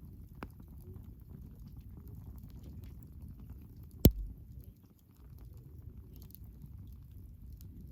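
Wood fire burning with a low, steady rumble and scattered faint crackles. One loud, sharp pop about four seconds in.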